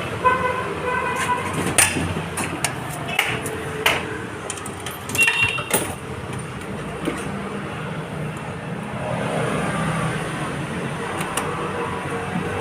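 An engine running steadily, with a quick run of short tooting notes about a second in and scattered knocks and clicks over the next few seconds.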